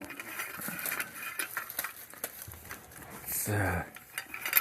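Small metal parts clinking and rattling as they are handled, a busy run of light clicks throughout.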